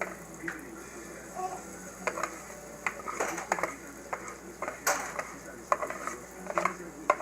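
A kitchen utensil scraping and clinking against cookware in irregular strokes, over a faint steady sizzle of pancake batter frying in butter.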